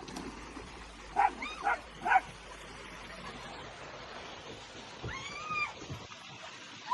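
A pet animal calling: three short, high yelps in quick succession, then one longer call that rises and falls about five seconds in.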